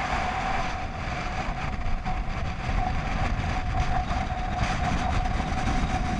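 Strong wind buffeting the microphone aboard a sailing boat, a low rumbling noise with a steady high whine throughout.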